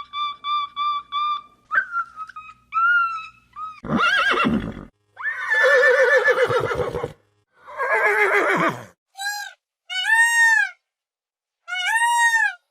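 A string of separate animal calls: short repeated chirps at first, then horse whinnies, long wavering calls that fall in pitch, and near the end three short arched high calls.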